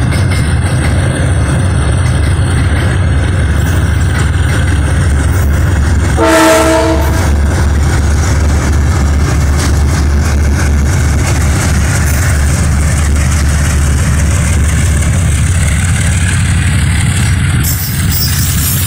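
Freight train of container wagons rolling over a level crossing: a steady loud rumble and clatter of wheels on the rails. A short horn blast sounds about six seconds in.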